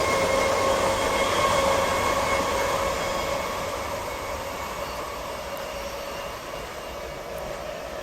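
Electric local train running away into the distance, its rumble and a steady whine slowly fading.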